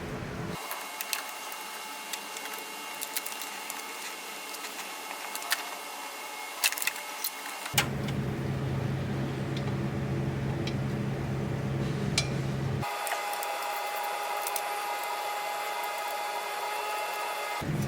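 Scattered sharp clicks and clinks, most likely hand tools working on the engine, over a steady hum. The background changes abruptly about half a second in, about eight seconds in, and about thirteen seconds in.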